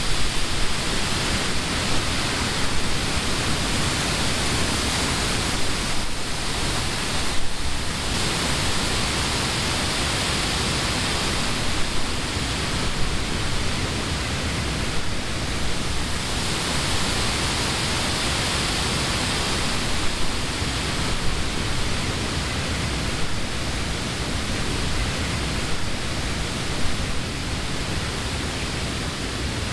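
Steady wind blowing through leafy summer trees, a constant rushing hiss that swells and eases slightly, with a few brief low buffets.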